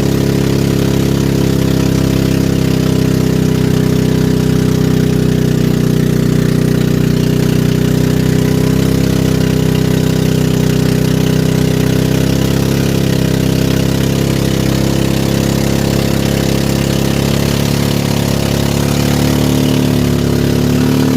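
Small riverboat's engine running steadily at a constant speed, loud and unchanging throughout.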